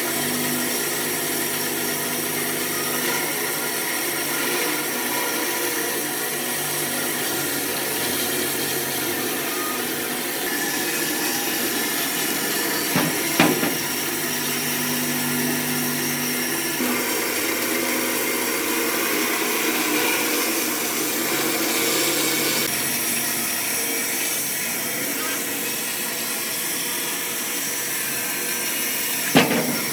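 Power tools working wood, a steady machine whine with grinding noise, with two sharp knocks, one about halfway through and one near the end.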